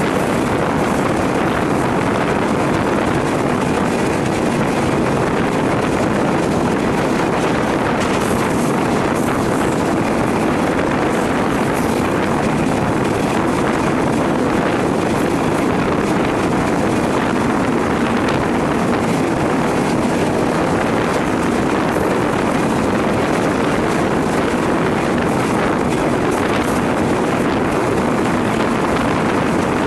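Wind rushing over the microphone together with the steady running noise of a moving passenger train, heard from a coach window.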